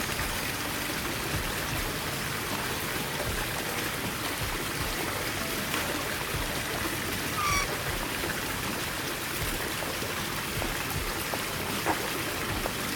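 Steady rushing noise like running water, with a single short bird chirp a little past halfway.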